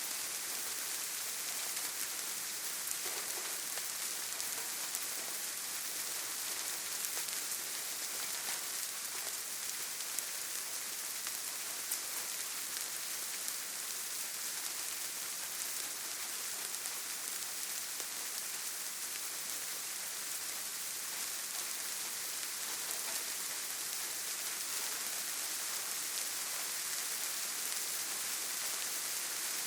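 Steady rain falling on leaves and ground, a constant hiss with scattered individual drop ticks.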